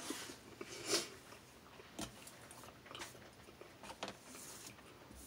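A person chewing a mouthful of dense, chewy pretzel-crust pizza, making faint mouth smacks and wet clicks about once a second.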